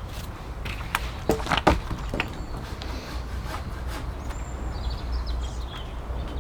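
A few sharp knocks of wood on wood about a second in, the loudest pair close together, then birds chirping near the end.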